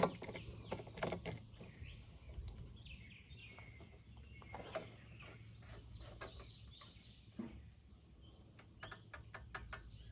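Birds chirping and calling with short repeated notes, over a low steady background hum, with scattered light clicks and knocks from handling.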